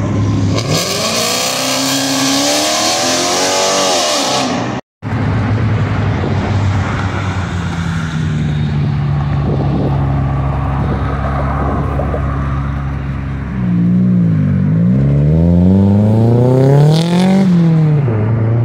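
Performance car engines accelerating away. The revs climb for a few seconds, and the sound breaks off for a moment about five seconds in. An engine then runs steadily, and in the last few seconds it revs up and down several times, the pitch dropping at each gear change.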